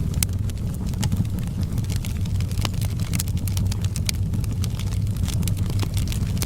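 Wood fire crackling in a fireplace: many irregular sharp snaps over a steady low rumble.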